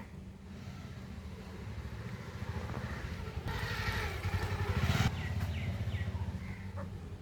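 A vehicle engine running with a rapid low pulse. It grows louder to a peak about five seconds in, then fades, as a vehicle passing by.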